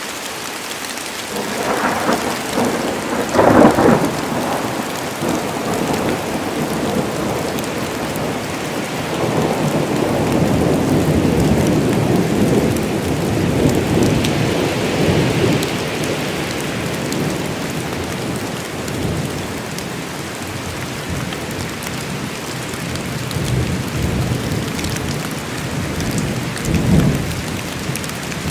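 Thunderstorm: steady heavy rain with thunder, two sharp cracks about two to three and a half seconds in, then a long rolling rumble that swells and fades, and another short clap near the end.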